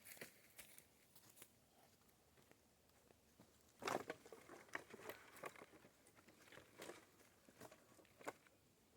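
Faint scattered crackling and rustling of dry twigs and leaves, loudest in a cluster about four seconds in.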